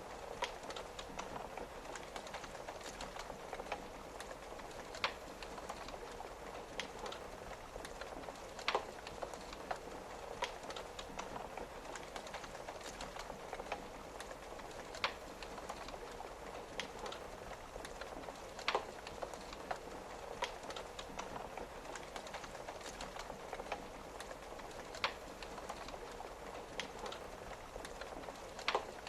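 Wood fire crackling with sharp pops every second or two, some louder than the rest, over a steady patter of rain on a window.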